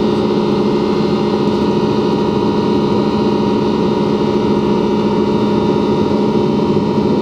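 Jet engine and airflow noise inside the cabin of an Ilyushin Il-96-300 airliner, whose four PS-90A turbofans are under power. It is a steady drone with several constant hum tones and no change.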